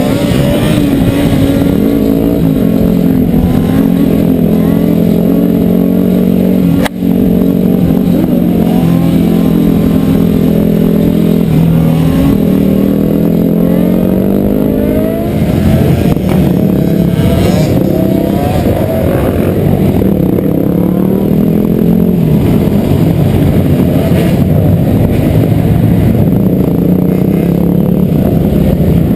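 Dirt bike engines running and revving, their pitch holding and then rising and falling, with a short break about seven seconds in.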